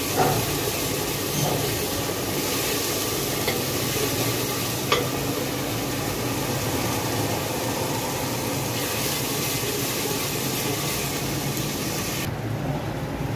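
Onion paste sizzling steadily as it fries in oil in an aluminium pot, with a wooden spoon stirring it at first. A small knock of the spoon comes about five seconds in.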